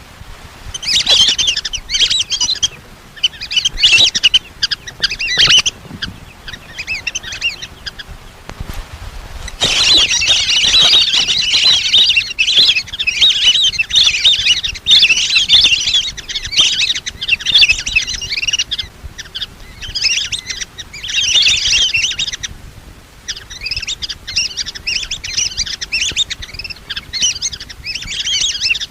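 Lesser whistling ducks calling: many rapid, high whistled chirps overlapping in bursts, with a long unbroken run from about ten seconds in to about nineteen. This is a decoy call recording played to lure the ducks in.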